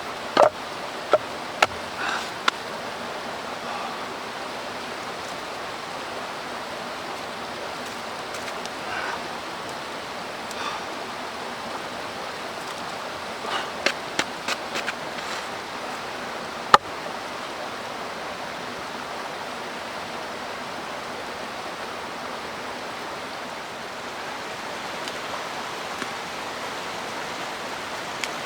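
Mountain stream rushing steadily, with a few sharp clicks and knocks: a handful near the start, a short cluster about halfway, and one sharp crack soon after.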